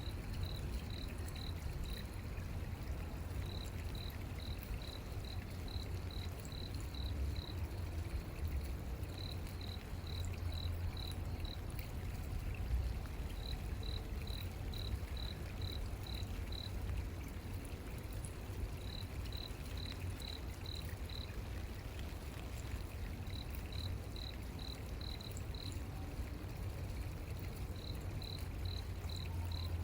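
A cricket chirping at night in repeated runs of short, high, evenly spaced notes, about two or three a second, each run lasting a few seconds with short pauses between. A steady low rumble sits underneath.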